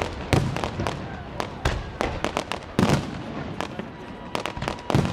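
Fireworks display going off: a rapid, irregular run of sharp bangs and crackles, with heavier deep booms about half a second in, near three seconds and near the end.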